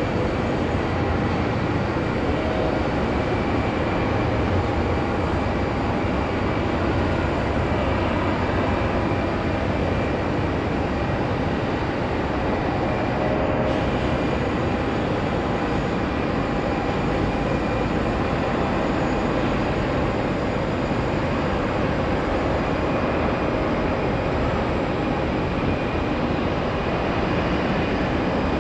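Jet airliner engines, a steady rushing noise with faint steady high tones above it, holding at an even level throughout.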